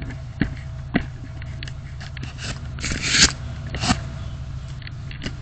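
Steady low hum inside a moving car's cabin. Two sharp clicks come about half a second and one second in, then a louder scraping, rustling noise about three seconds in and a shorter one about a second later.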